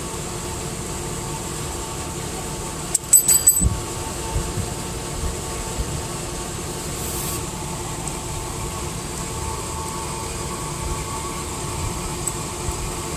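Steady hum of an idling engine with a few faint steady tones. A quick cluster of clicks and knocks comes about three seconds in, and a brief high hiss about seven seconds in.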